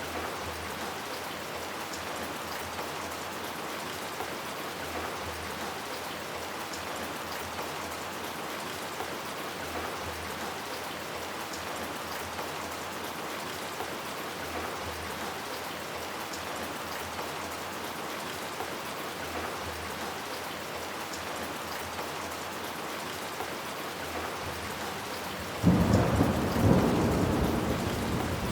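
Steady rain. Near the end comes a sudden loud thunderclap whose deep rumble rolls on and slowly fades.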